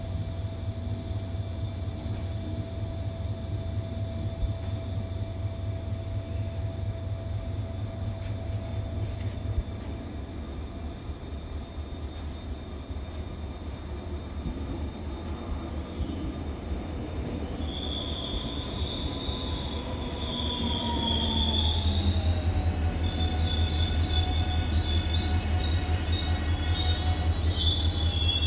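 Seoul Subway Line 1 electric commuter train pulling in. A steady low rumble runs throughout. From about two-thirds through come high wheel squeals and a falling motor whine as it slows, and it grows louder near the end.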